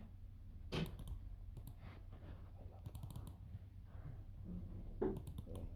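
Scattered clicking at a computer, coming in small groups of quick clicks, over a steady low hum.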